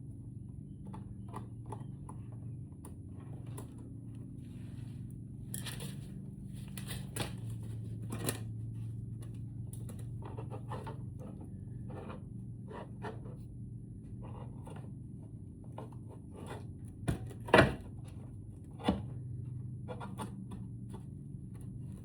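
Scattered light clicks and knocks of tools and parts being handled while a lithium trolling-motor battery is taken apart, with a few sharper knocks about 17 to 19 seconds in, over a steady low hum.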